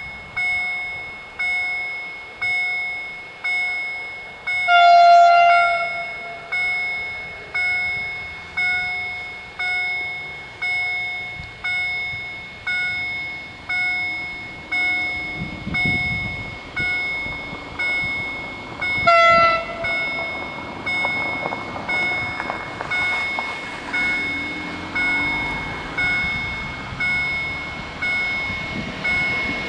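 Level-crossing warning bell striking about once every 1.3 seconds, each stroke ringing and fading. An intercity train sounds its horn twice, a long blast about five seconds in and a shorter one later, and then passes over the crossing with a rising rumble of wheels on rail.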